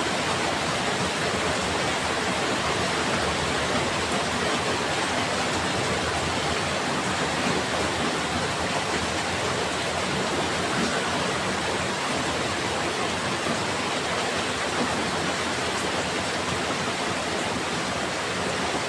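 Heavy rain falling steadily, a dense, even hiss of water with no thunder.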